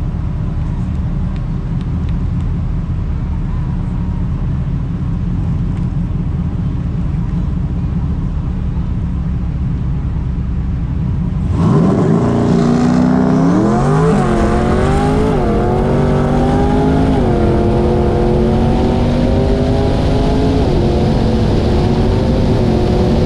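Twin-turbo C8 Corvette V8 holding a steady low rumble, then about halfway through launching hard on a quarter-mile pass. The engine note climbs and drops back through several quick upshifts as the car accelerates.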